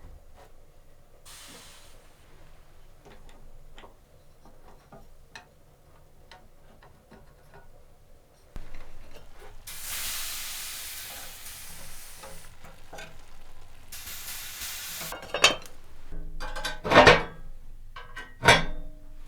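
Cooking at a stove: scattered small clicks and clinks, two bursts of loud sizzling hiss in the middle, then three loud knocks in the last few seconds.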